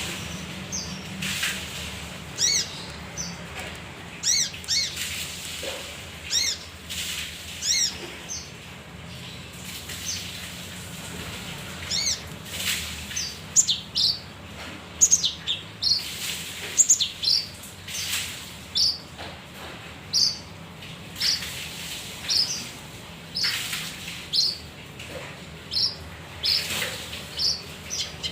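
Male kinoi songbird singing: a long run of short, sharp chirps and high whistled notes, one or two a second, busier in the second half. A faint steady low hum runs underneath.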